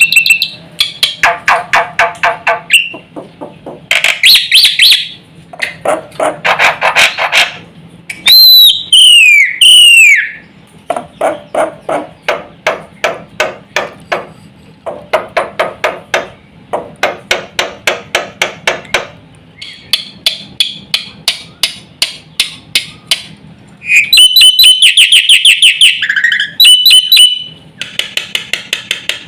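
Black-winged myna (jalak putih) singing hard: long runs of rapid rattling chatter broken by loud whistles, with two downward-sliding whistles about eight seconds in and a burst of whistled phrases near the end.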